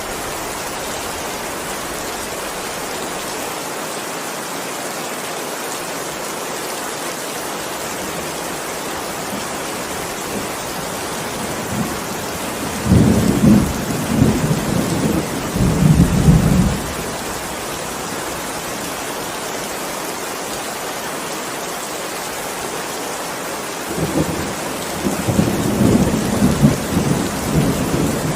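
Steady heavy rain hissing, with two rolls of thunder: one rumbling for about four seconds around the middle, and another that begins a few seconds before the end and is still going.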